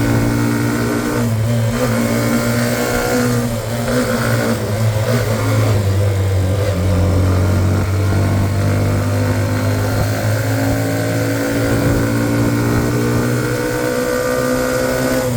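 Hero Xtreme 125R motorcycle's single-cylinder engine pulling uphill under load. The engine note dips a few times in the first few seconds, then rises steadily over the last few seconds as the bike accelerates.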